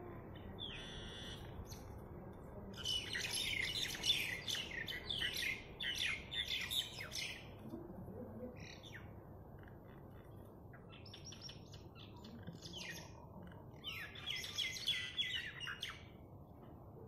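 Small birds chirping in rapid clusters of short, high calls: briefly about a second in, then a dense run from about three to seven seconds, and again near the end, with quieter gaps between.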